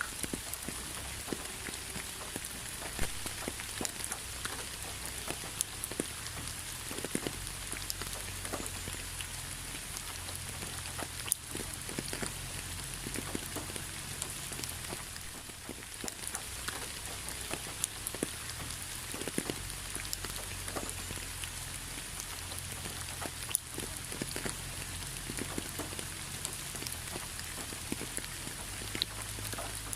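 Steady rain, a constant hiss with individual raindrops tapping at irregular moments throughout.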